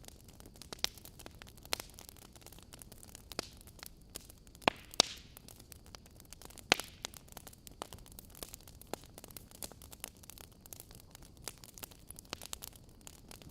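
Wood fire burning in a fireplace: logs crackling with irregular sharp pops over a soft steady hiss, with a brief hiss and a cluster of louder pops about five seconds in.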